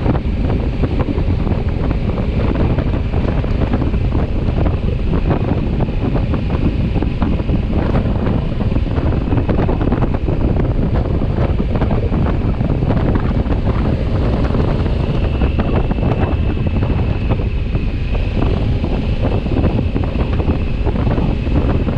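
Wind buffeting a microphone on a moving motorcycle, a loud, steady rush heaviest in the low end, with the ride's rumble beneath it. A faint steady whine sits over the noise, plainer in the second half.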